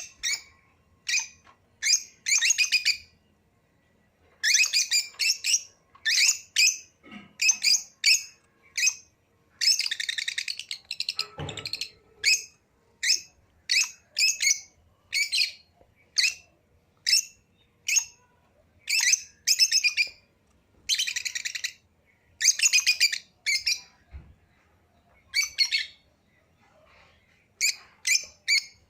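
Small pet parrots chirping and squawking in short, shrill, repeated calls, often one or two a second, with a lull of about a second near the start.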